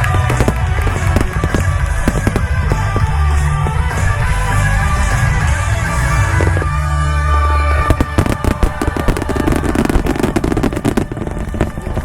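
Aerial fireworks bursting with heavy low booms, then a dense run of rapid crackling bangs from about two-thirds of the way in. Music plays underneath.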